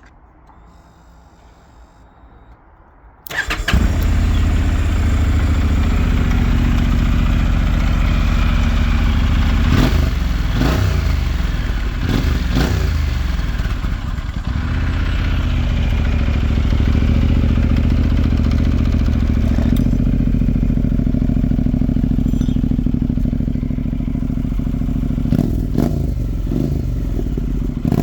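Honda NC750X parallel-twin engine through a TORO carbon sports exhaust, starting about three seconds in and then idling steadily. The throttle is blipped a few times about a third of the way through and again near the end.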